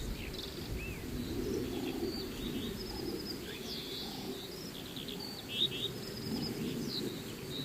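Several small birds chirping and trilling in quick short calls, over a low steady background noise.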